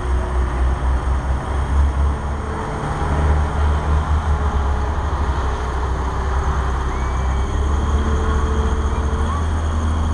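Pulling tractor's engine running with a loud, deep, steady rumble that pulses slightly, not revving up into a full-throttle pull.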